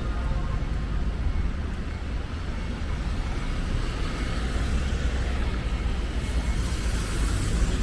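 Road traffic on rain-wet streets: a steady low rumble, with a brighter hiss building about six seconds in.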